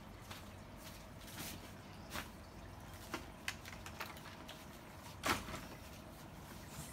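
Scattered light clicks and knocks from handling, about eight in all at uneven intervals, the loudest a knock about five seconds in; no motor is running.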